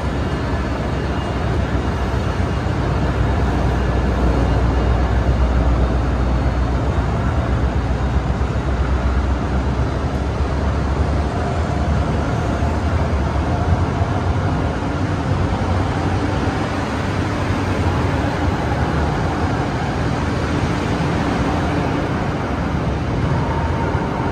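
NJ Transit push-pull passenger train departing from the platform, its coaches rolling slowly past: a steady low rumble of wheels and running gear, heaviest in the first half, with faint high tones from the wheels near the end.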